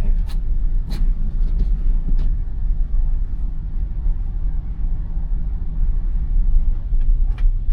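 Steady low tyre and road rumble inside the cabin of a 2021 Tesla Model Y driving on a snow-covered road, with no engine sound, as it is an electric car. A few brief faint clicks are heard about a second in and again near the end.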